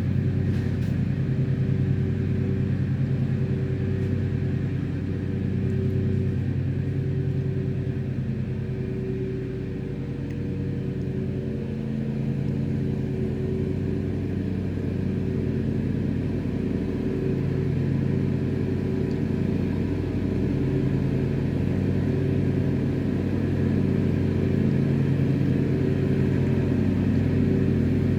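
Lawnmower engine running steadily, easing off a little about a third of the way through and then growing louder again.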